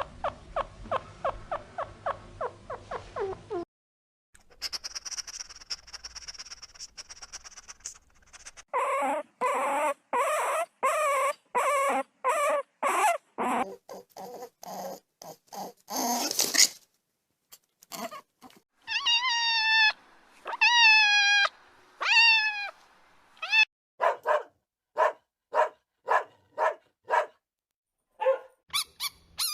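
A series of separate animal-call recordings: first a fast run of short squeaks, then a steady high hiss, then runs of loud repeated cries and short chirps, with brief gaps between them.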